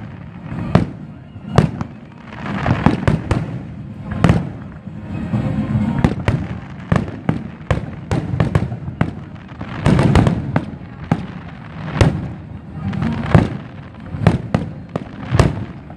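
Aerial fireworks display: shells bursting in an irregular run of sharp bangs throughout, with denser clusters of bangs about two, ten and thirteen seconds in.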